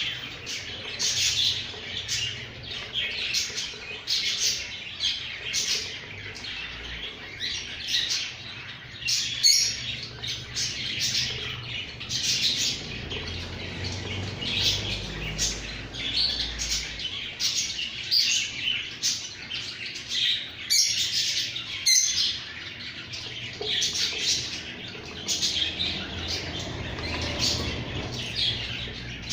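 Pet birds chirping over and over, with short calls coming thick and fast, several a second.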